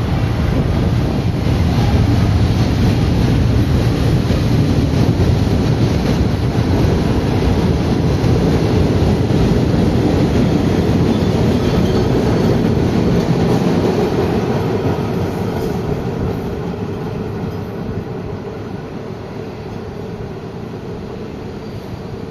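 Recife Metro electric train running through the station, a loud steady rumble of wheels on rail that fades over the last several seconds as it moves away. A steady whine runs through the second half.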